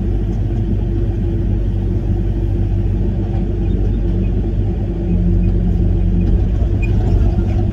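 Link-Belt 145 excavator's diesel engine running steadily, heard from inside the operator's cab. About five seconds in, the engine note steps up a little as the machine is worked.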